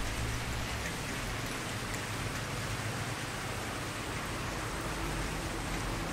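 Wood campfire burning, a steady hiss with faint scattered small crackles and a low rumble underneath.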